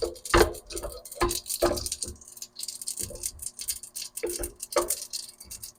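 Mustard seeds popping and spluttering in hot oil: irregular sharp pops over a steady high sizzle.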